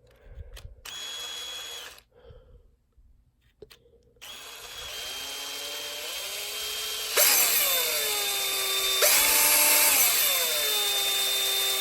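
Electric drill with a very small bit drilling a screw hole: a short run about a second in, then a long run from about four seconds whose whine climbs in pitch as the trigger is squeezed harder, loudest in the second half.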